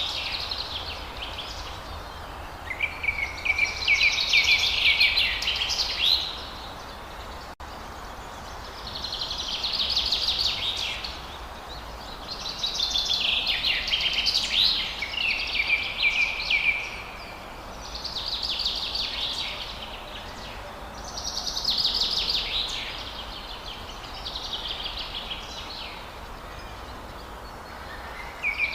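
Forest songbirds singing: a run of song phrases, each a rapid trill of repeated notes lasting one to four seconds, coming again every few seconds over a faint steady hiss. The sound cuts out for an instant a little over seven seconds in.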